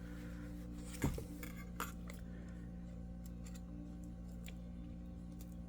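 Two small clicks of tools against the iPad 2's broken glass and frame, about a second in and again near two seconds, over a steady electrical hum.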